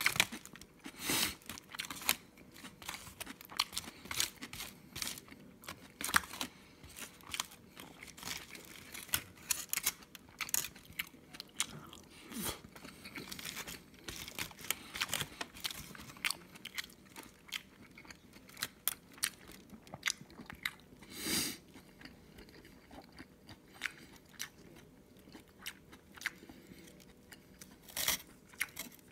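Chewing and crunching of rice-burger leftovers, heard as irregular clicks and crackles, with a plastic spoon scraping the crumpled aluminium foil wrapper.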